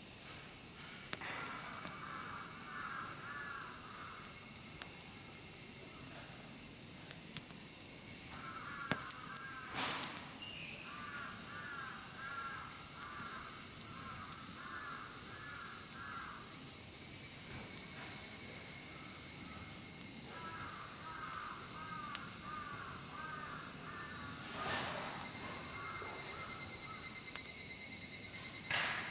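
A steady, high-pitched chorus of insects, typical of a summer night. Over it an animal calls in several bouts of rapid repeated notes, and there are a few sharp snaps.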